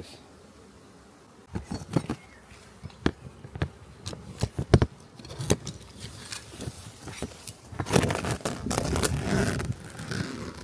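Beehive equipment being handled and opened up: a run of irregular wooden knocks and clicks with scraping between them, and a denser stretch of rustling and scraping near the end.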